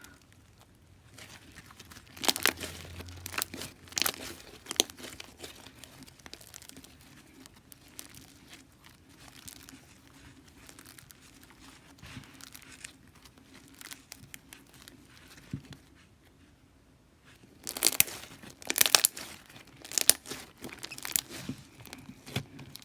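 Hands squeezing and stretching a soft bead slime, giving sharp crackling pops and clicks in two spells, a couple of seconds in and again near the end.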